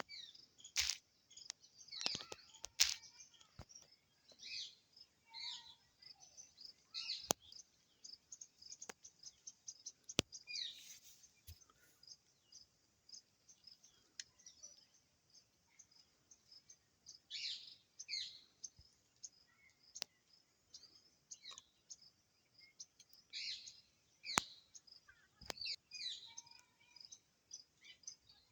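Birds chirping over a steady, rapidly repeating high insect chirp, like a cricket, with a few sharp clicks scattered through.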